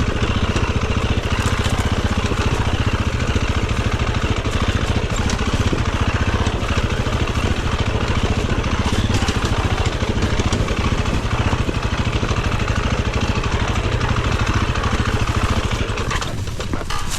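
Dirt bike engine running steadily, its rapid firing pulses filling the low end. About a second before the end the engine sound drops away and turns uneven.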